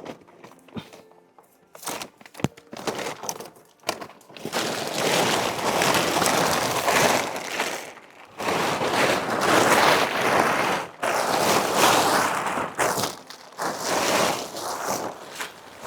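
Plastic waterproof tarp being pulled down and bunched up: long stretches of crinkling and rustling, with a few sharp clicks and knocks in the first few seconds.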